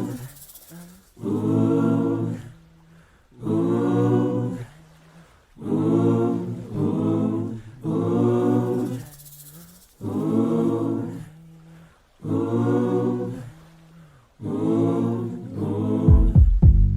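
Background music: a run of short wordless sung phrases, each about a second long with brief gaps between, over little or no accompaniment.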